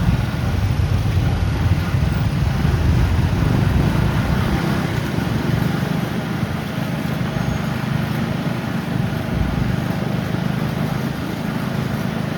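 Steady outdoor background noise dominated by a low rumble, like traffic or wind, with no distinct events.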